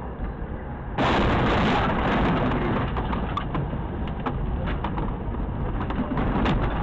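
Steady noise of a vehicle on the road that gets louder and fuller about a second in, with scattered sharp clicks or taps over it.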